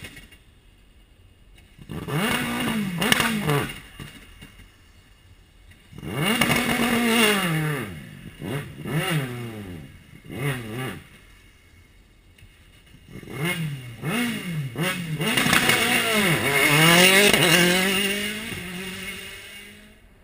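Rally car engine revving hard in several bursts, the pitch climbing through the gears and dropping on each lift-off, with short quieter gaps between; loudest near the end.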